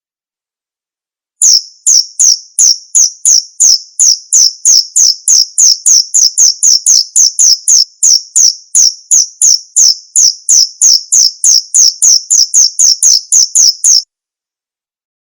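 Male 'bos' cricket chirping: a loud, high-pitched, even run of short chirps, about three a second, that starts about a second and a half in and stops abruptly near the end.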